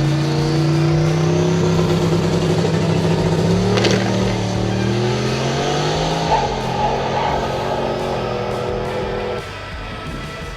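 A Mustang drag car's engine launching and accelerating hard on a solo pass, its pitch climbing with a change near four seconds and again to about six seconds, then falling away near the end.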